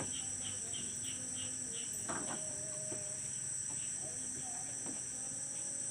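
Night insect chorus: crickets trilling in a steady, high-pitched unbroken band, with a second caller pulsing about three times a second, over a faint low hum.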